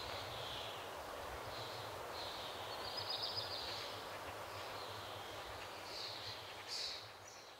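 Outdoor ambience: a steady background hiss with a low hum, and faint bird calls scattered through it, including a short trill about three seconds in and a louder call near the end.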